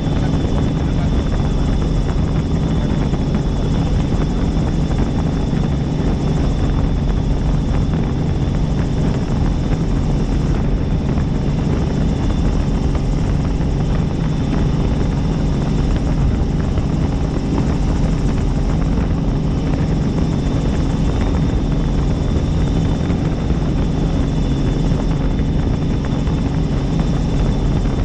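Helicopter in flight: steady, loud drone of the rotor and turbine engine, with a low hum and a thin steady high whine over it.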